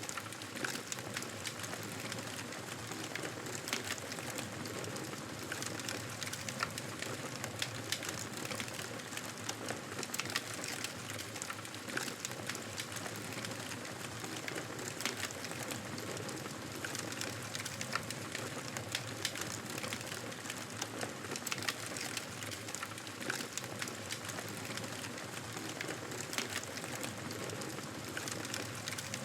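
Wood fire burning in a fireplace: a steady hiss with frequent, irregular crackles and pops.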